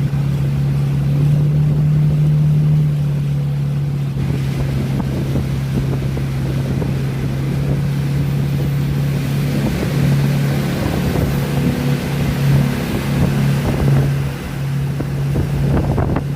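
Boat engine running with a steady drone, with wind rumbling on the microphone.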